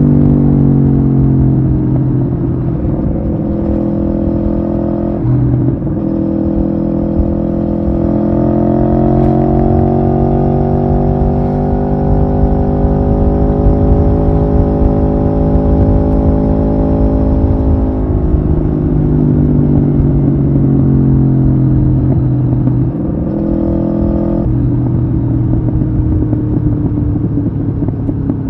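Aprilia Tuono V4R's V4 engine running under way: its note drops at the start, climbs slowly through the middle and eases off again, with several sudden steps in pitch along the way, over a low rumble.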